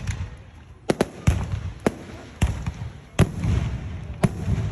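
Aerial fireworks shells bursting: a string of about seven sharp bangs in under five seconds, each followed by a rumbling echo.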